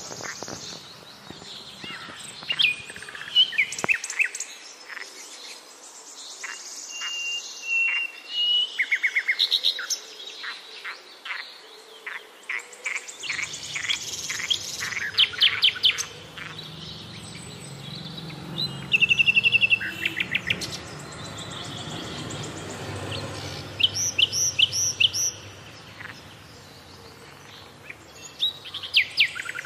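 Several birds chirping and calling, with many short whistled notes and fast trills of repeated notes. A faint low hum comes in underneath about halfway through.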